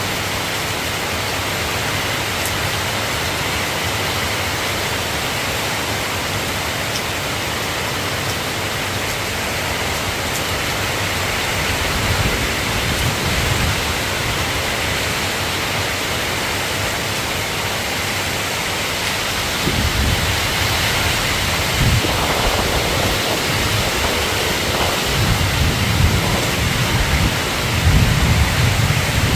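Steady rain falling, an even hiss, with low rumbles of thunder swelling in and out through the second half.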